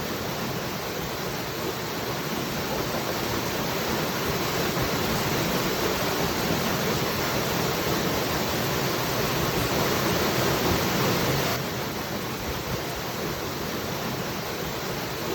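Waterfall rushing in a steady hiss of falling water. It swells a little a few seconds in, then drops back suddenly about three-quarters of the way through.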